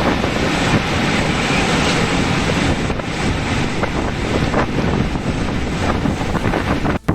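Typhoon wind blowing hard across the microphone: a loud, steady rushing noise that breaks off abruptly near the end.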